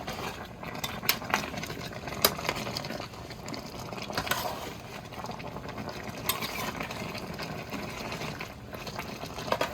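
A spoon stirring a pot of simmering smoked turkey necks in gravy: steady bubbling with scattered clinks of the spoon against the pot.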